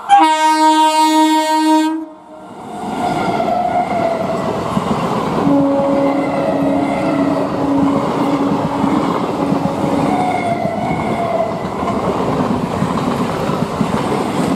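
Electric multiple-unit (EMU) local train sounds its horn in one loud blast of about two seconds, then its coaches pass close by at speed with a steady rush and clatter of wheels on the rails.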